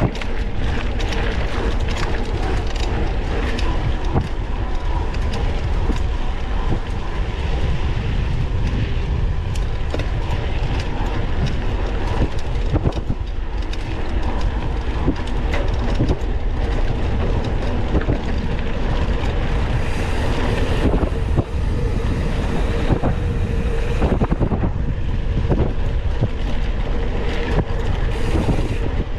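Mountain bike ridden over a rough dirt trail, heard up close: a steady rumble of tyres and wind on the microphone, with frequent rattles and knocks from the bike over bumps.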